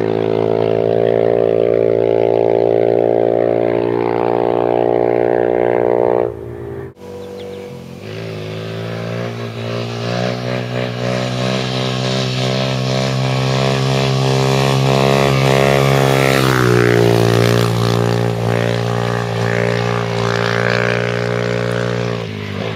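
A 2008 Suzuki DR-Z400SM's single-cylinder four-stroke engine running loud through an FMF full exhaust system. It holds a steady note, cuts out about six seconds in, then comes back and grows steadily louder. Its pitch drops a little about two-thirds of the way through.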